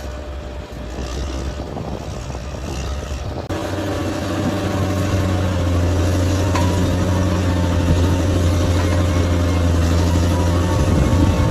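Large bulldozer's diesel engine running with a steady low hum; the sound changes abruptly about three and a half seconds in and is louder after.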